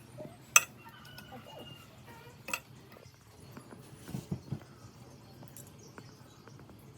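Metal parts being handled: two sharp metallic clinks, the first ringing briefly, then a few duller knocks about four seconds in.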